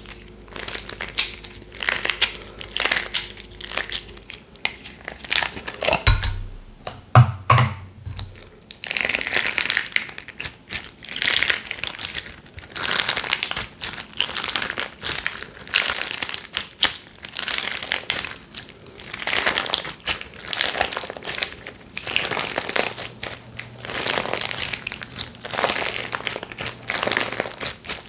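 Slime being squished, pressed and stretched by hand, giving crinkly, crackling squishes in repeated bursts about once a second.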